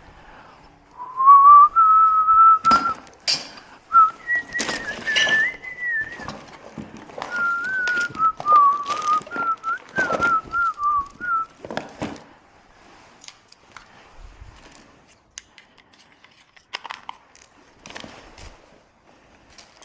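A person whistling a short tune, a clear wavering melody in several phrases that stops about halfway through, with scattered clicks and knocks of handling alongside.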